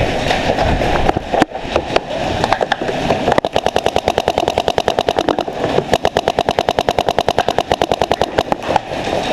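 Paintball markers firing: scattered shots at first, then a long, steady stream of rapid fire at roughly a dozen shots a second starting about three and a half seconds in.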